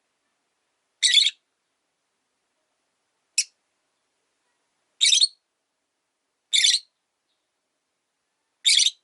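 Rosy-faced lovebird giving five short, high-pitched chirping calls about one and a half to two seconds apart, the third one much briefer, with silence between.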